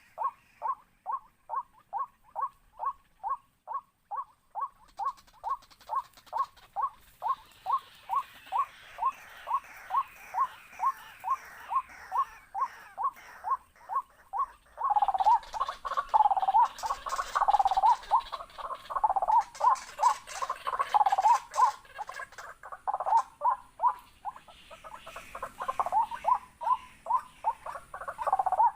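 Waterhen calling: an even run of short, repeated notes, about two to three a second. About halfway through the calls turn louder and less regular, with faint clicking.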